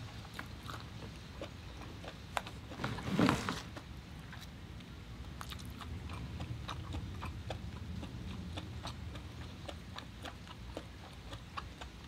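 Close-miked chewing of lobster meat: scattered soft wet mouth clicks and smacks, with one louder, longer mouth sound about three seconds in.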